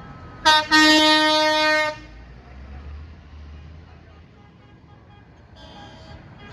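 A vehicle horn gives a short toot and then a loud blast of about a second, followed by the low rumble of a heavy engine going past. A fainter horn sounds near the end.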